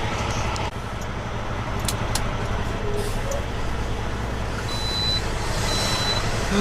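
Semi-truck diesel engine running steadily, heard from inside the cab, with a couple of sharp clicks about two seconds in and two high electronic beeps near the end.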